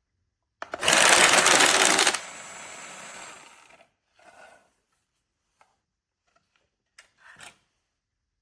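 Automatic electric card shuffler running: about a second and a half of loud, rapid card riffling, then a quieter whir for another second and a half before it stops. A few small clicks and knocks follow later.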